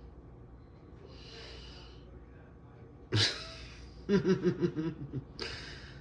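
A person breathing close to the microphone. About three seconds in there is a sudden loud outburst, followed by a quick run of short voiced pulses and another sharp breath near the end.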